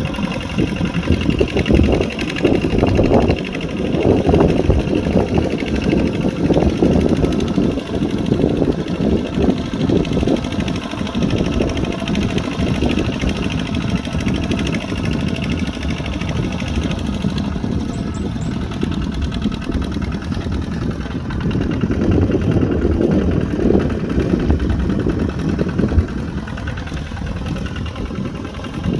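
Kubota tractor's diesel engine running steadily while plowing a muddy field, swelling louder twice: for several seconds near the start and again near the end.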